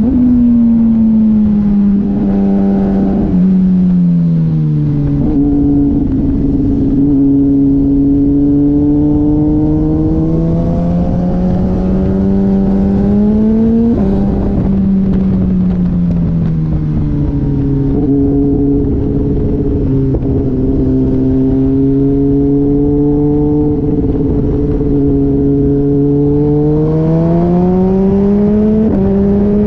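Sport motorcycle engine under way on a track, its pitch falling and rising with throttle over several seconds, with sudden jumps in pitch about halfway through and near the end.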